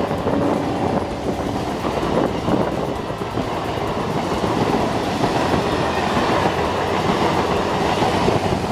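Electric local train (EMU) running on the track: a steady rumble of wheels on rails with clickety-clack.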